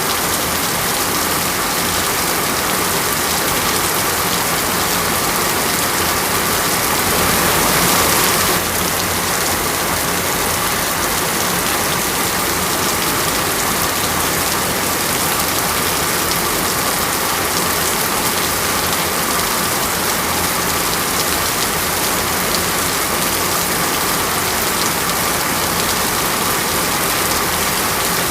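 Steady rain pattering on a surface in an even, dense hiss. About seven seconds in it swells a little louder for a second or so, then drops back sharply.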